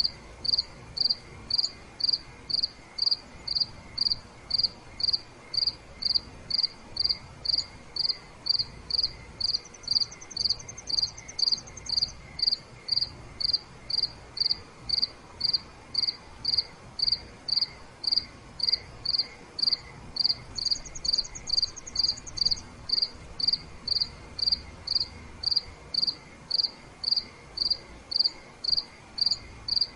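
Crickets chirping at night: one loud cricket gives short, evenly spaced chirps at about two a second. Twice, a fainter, higher and faster trill sounds for about two seconds.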